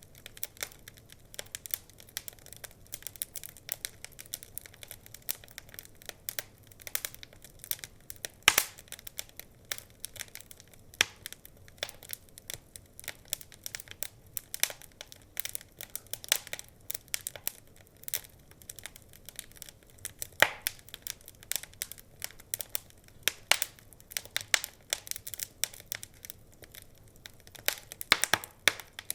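Wood fire crackling: dense, irregular small pops and snaps, with a few sharper louder pops, one about eight seconds in and a cluster near the end.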